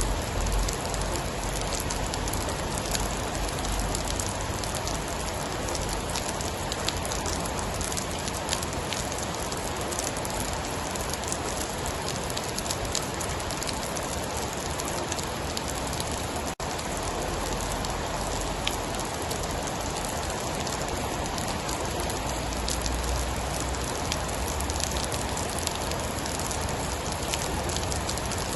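Steady rain falling on a surface, a dense hiss with many small sharp drop ticks scattered through it. A low rumble sits under it near the start and again about three-quarters of the way through, and the sound drops out for an instant about halfway.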